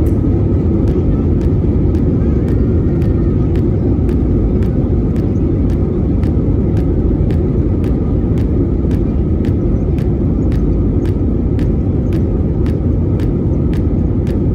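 Steady low rumble of a jet airliner's engines and airflow heard from inside the passenger cabin, with faint regular ticking about twice a second.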